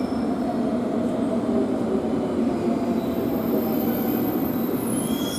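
Train running on the rails with steady wheel and running noise; a thin high squeal sets in a little past halfway.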